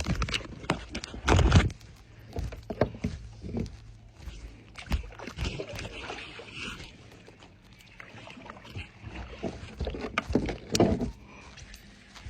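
Irregular knocks and bumps on a fishing kayak, gear and body moving against the hull, over a low wash of water noise.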